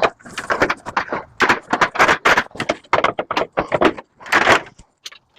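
Metal parts clattering and scraping as a microwave is taken apart by hand: a fast run of clicks and rattles, with two short scraping rasps, one about two seconds in and one near the end.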